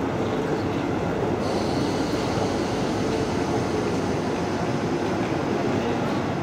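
Deutsche Bahn ICE high-speed train at a station platform, a steady rolling rumble with a faint hum, and a hiss that joins about a second and a half in.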